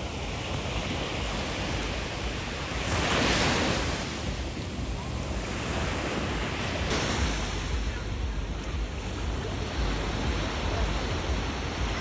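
Sea waves washing onto the shore, with wind buffeting the microphone; one wave swells louder about three seconds in.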